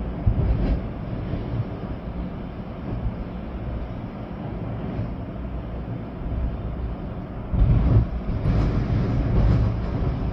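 Storm wind gusting hard, with rain, as a deep rumbling rush that swells and eases, with a stronger gust about eight seconds in.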